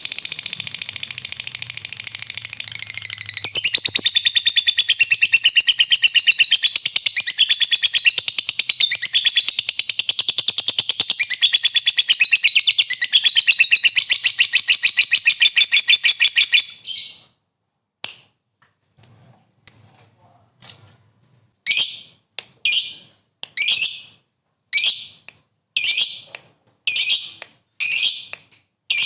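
Lovebird giving a long 'ngekek' chatter: a rapid, shrill, unbroken trill for about sixteen seconds that stops abruptly, followed after a short pause by separate short chirps about one a second.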